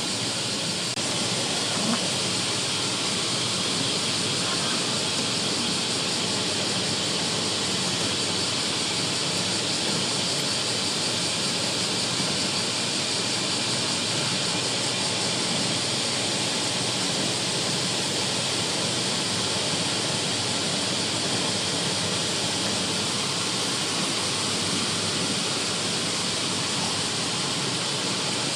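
Steady hiss of typhoon rain and wind, an even unbroken noise with no distinct events.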